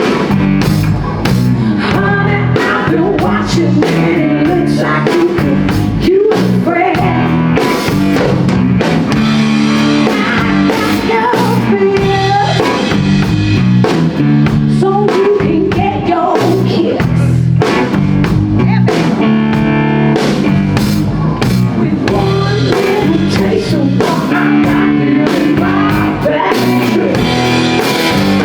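Live blues-rock band playing loudly and steadily, with electric guitar over bass and drum kit.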